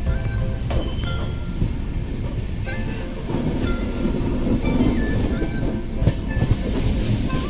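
Express passenger train running on the rails: a steady low rumble with the wheels clattering over the rail joints. Music plays faintly over it.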